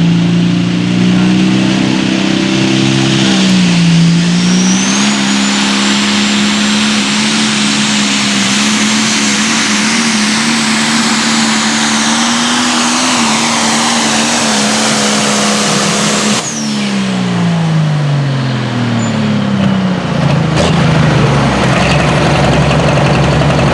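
Limited pro stock pulling tractor's turbocharged diesel engine running flat out under load, held steady at high revs, with a high whine that rises over the first few seconds. About two-thirds of the way through, the revs drop away quickly as the throttle comes off, and the engine winds down.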